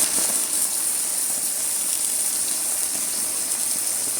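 Steady hissing noise, even in level throughout.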